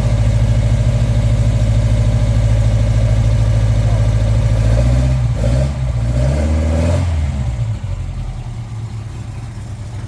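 Ford Escort RS2000's 2.0-litre Pinto four-cylinder engine idling steadily. About five seconds in it is blipped up and down a couple of times, then it settles back to a quieter idle.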